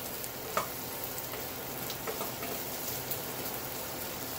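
Pieces of boiled chicken gizzard and heart sizzling steadily in hot oil in a stainless steel pot, with a few light clicks of a wooden spatula stirring against the pot.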